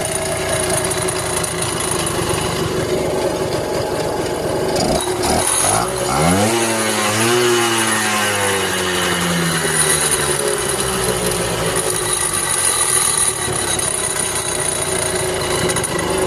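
1977 Yamaha Champ minibike's 80cc two-stroke engine, fitted with a race carburetor, idling while the idle is being set. About five seconds in the revs climb quickly, then sink slowly back down to a steady idle over the next several seconds.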